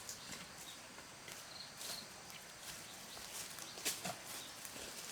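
Scattered light knocks and clicks with rustling: pieces of wood being handled and set down, with footsteps.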